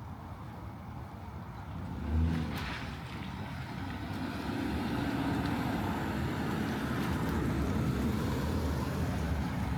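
A car on a wet residential street, its engine and tyre noise building from about four seconds in and staying up to the end, over light rain. A brief low sound comes about two seconds in.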